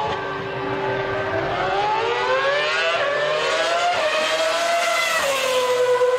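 Ferrari Formula 1 car's engine at high revs, its high-pitched note climbing steadily for several seconds with a brief step about two-thirds of the way, then dropping sharply about five seconds in and holding a lower steady note.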